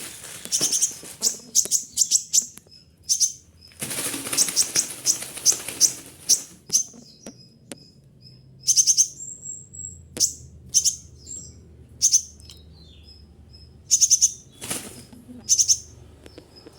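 Caged sunbird (konin) giving a string of sharp, high chirps and short call notes. Three times the chirps are mixed with bursts of wing flapping, the longest about four seconds in.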